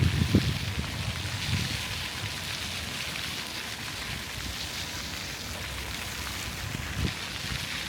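Steady hiss of falling water, like rain spattering on pavement, with a few low rumbles in the first moment.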